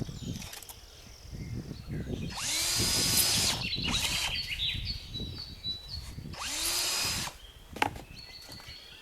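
Electric drill boring holes in a dried birdhouse gourd shell. Two short runs of about a second each, one a couple of seconds in and one about two-thirds through. Each starts with the motor spinning up and stops abruptly.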